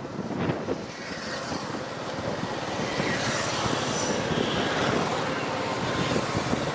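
Steady road and traffic noise, as heard riding a motorcycle on a highway.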